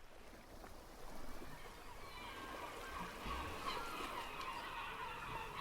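Faint outdoor ambience: many birds calling in short, busy chirps over a soft steady wash.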